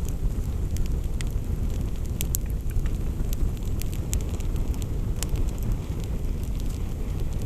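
Wood campfire burning: scattered sharp crackling pops over a steady low rumble.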